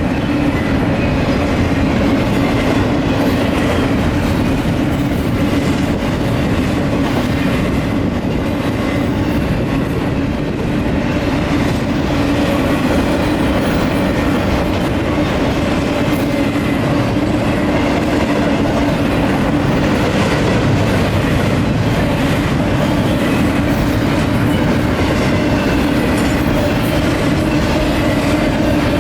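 Union Pacific intermodal double-stack freight train rolling steadily past, its steel wheels clicking over the rail joints with a continuous rumble.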